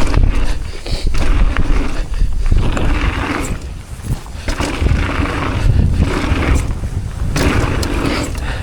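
Mountain bike ridden down a dirt trail: tyres rolling over dirt and the bike rattling over bumps, with scattered clicks, while wind buffets the microphone as a heavy low rumble.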